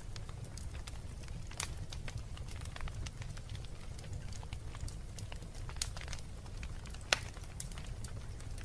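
Wood fire burning in a fireplace: a steady low rumble of the flames with irregular sharp crackles and pops, the loudest pop about seven seconds in.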